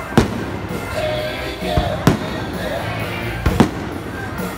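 Aerial fireworks bursting overhead: about five sharp bangs, the later ones coming in close pairs, over a steady background din.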